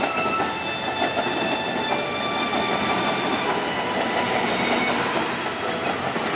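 A train running past on the rails: a steady rumble of wheels on track, with short high squealing tones coming and going.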